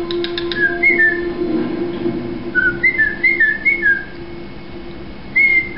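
Cockatiel whistling a tune in short phrases of quick sliding-down notes: a couple about a second in, a run of several in the middle and another near the end. A few quick clicks come just at the start.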